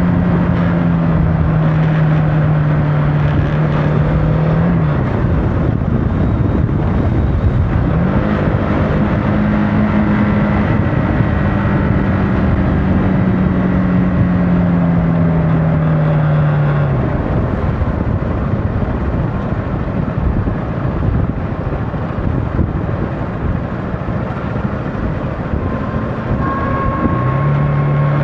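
CFMOTO motorcycle engine running on the road under heavy wind rush. The engine note drops about five seconds in and picks up again a few seconds later. It then falls slowly and fades under the wind for about ten seconds, returning near the end.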